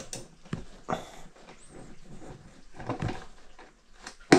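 Ratchet and bit working the rear shock's mounting bolt: irregular clicks and light metal knocks, with a cluster about three seconds in and a sharp, loud knock near the end.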